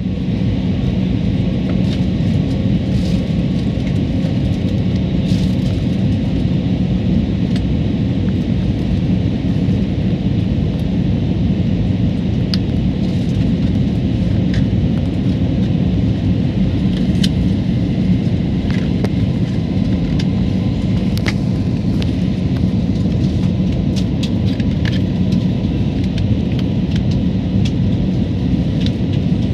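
Steady airliner cabin noise in flight: an even rumble and rush of engine and airflow with a constant low hum. Occasional faint ticks sound through it.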